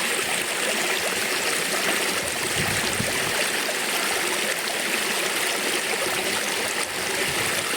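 Rushing water of a stream, a steady, unbroken hiss.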